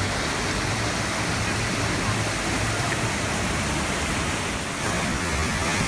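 Steady rushing of water: an even, unbroken noise with no distinct splashes or knocks.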